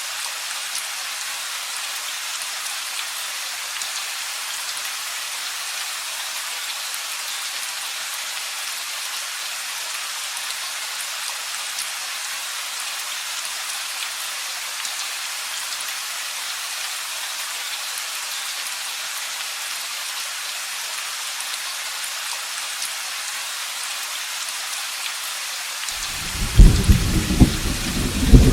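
Steady rain falling as an even hiss. Near the end a sudden, loud clap of thunder breaks in, cracking and rumbling low.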